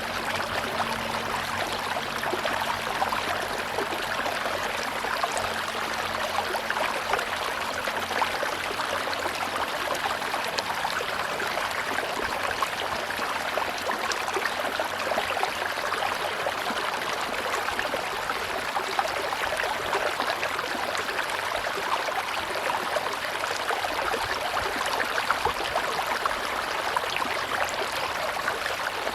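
Tropical river water flowing steadily: a continuous even rush with fine bubbling and gurgling.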